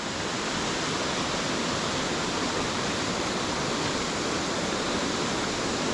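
Waterfall running fast into its plunge pool: a steady, unbroken rush of falling water.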